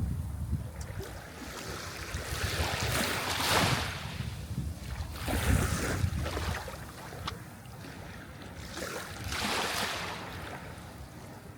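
Sea waves washing onto the shore: three swells of hissing surf a few seconds apart, each rising and falling away, over a low rumble of the sea.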